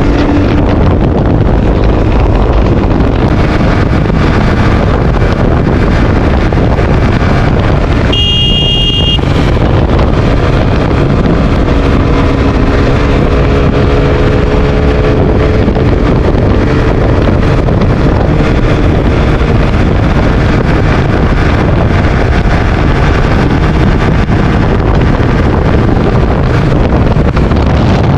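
Heavy wind rush on the camera microphone while riding a KTM RC 200 motorcycle, its single-cylinder engine running underneath at steady road speed. A horn beeps once, briefly, about eight seconds in.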